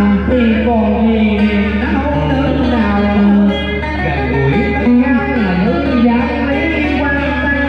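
Guitar accompaniment to cải lương singing: plucked notes that bend and slide, over a steady low note.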